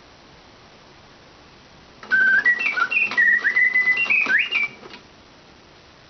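Bontems mechanical singing bird automaton whistling a short song phrase of about three seconds, its notes stepping and sliding between high pitches. The song starts about two seconds in and stops abruptly near five seconds, with only a faint hiss before and after during the mechanism's pause.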